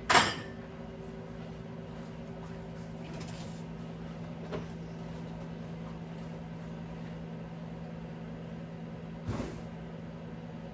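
A sharp knock just after the start, then two fainter knocks about four and nine seconds in, like things being set down or a door or shelf knocking, over a steady electrical hum.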